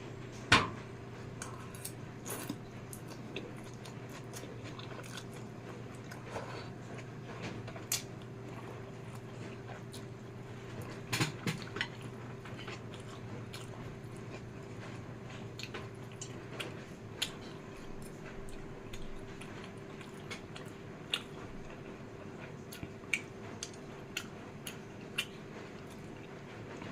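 A person chewing and eating spicy fried instant noodles close to the microphone, with scattered sharp clicks, the loudest about half a second in, over a steady low hum.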